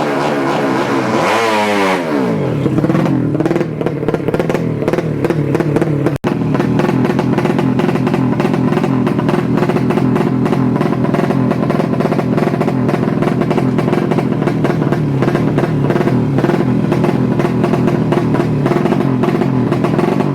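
200cc Yamaha Jupiter Z drag bike engine being revved, its pitch wavering up and down, with a steep drop in revs about two seconds in and a momentary break about six seconds in.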